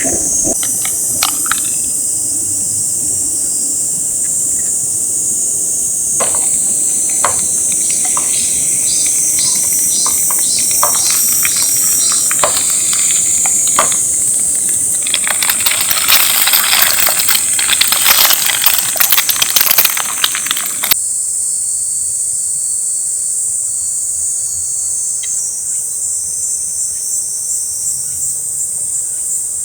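Insects keep up a steady high-pitched chorus in the forest. Over it come scattered clicks, then a denser stretch of crackling and clinking that stops abruptly about twenty seconds in.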